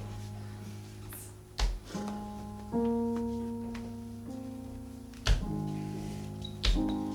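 Keyboard playing slow, held chords that change every second or so, with a few dull thumps, about three, in between.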